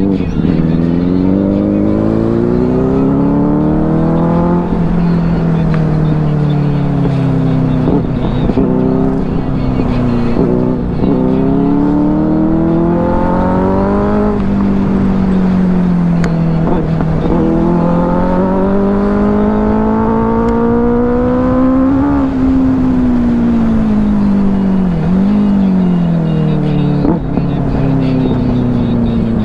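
Motorcycle engine pulling hard through the gears. Its pitch climbs for several seconds, then drops at each shift, and winds down slowly once near the end, over a steady rush of riding noise.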